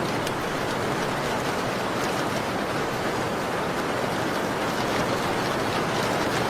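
Steady rain falling, with faint scattered crackles of a wood fire in a fireplace.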